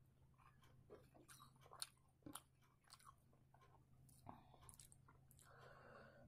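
Faint close-up chewing of rice eaten by hand, with many soft wet clicks and smacks of the mouth. Near the end comes a brief soft wet sound as fingers dip into a bowl of dal.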